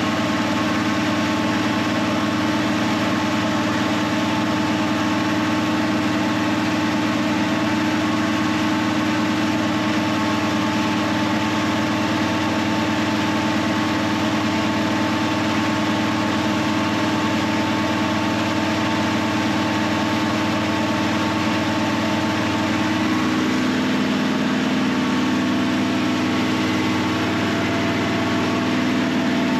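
Dodge Dart's 340 small-block V8 idling steadily while it warms up on a freshly fitted aluminium radiator, being tested for overheating. Its note shifts slightly about 23 seconds in.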